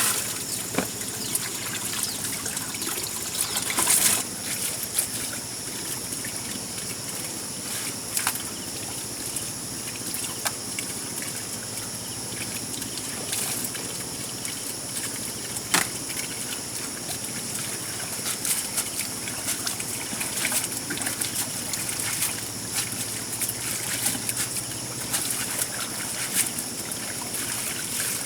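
Water trickling steadily, with a few separate sharp knocks now and then.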